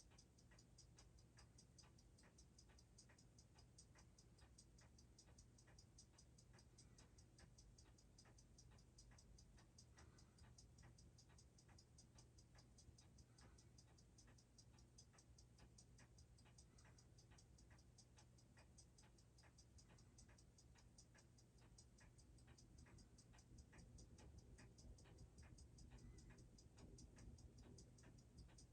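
Seiko 6R15 automatic watch movement ticking at its 21,600 beats per hour, six even ticks a second, picked up faintly by a timegrapher's microphone while its rate is checked in different positions. A steady low hum lies under the ticks.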